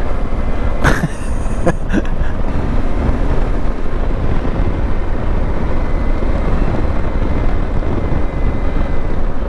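Yamaha Ténéré 700 adventure motorcycle under way: steady wind rushing over the microphone over the low rumble of the bike's parallel-twin engine, with a few sharp knocks in the first two seconds.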